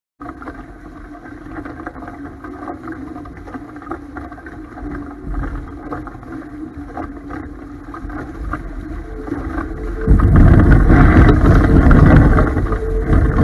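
Strong wind rushing over the microphone with water noise while sailing a Topaz 16CX catamaran in high wind, over a faint steady hum. About ten seconds in, a heavy gust buffets the microphone with a loud low rumble for about three seconds.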